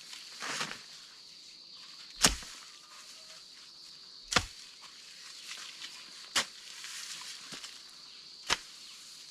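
Steady night rain ambience with a constant high insect drone, broken by sharp drips of water striking a hard surface about every two seconds.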